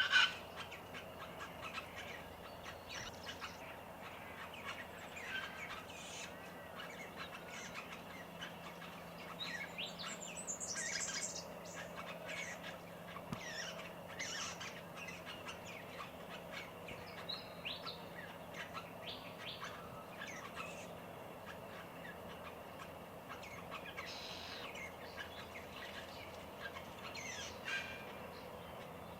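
Mixed garden birdsong: scattered short chirps and calls from several Australian birds, among them White-browed Babblers, Red Wattlebird, Superb Fairy-wren and Willie Wagtail. A louder, denser flurry of calls comes about ten seconds in.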